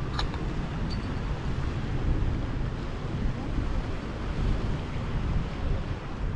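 Wind buffeting the microphone in a gusty low rumble over the steady wash of surf on the beach.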